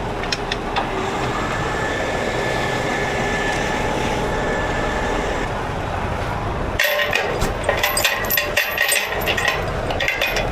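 A heavy rotator tow truck's engine running steadily, then, from about two-thirds of the way in, repeated sharp metal clinks of chains and hooks being handled over it.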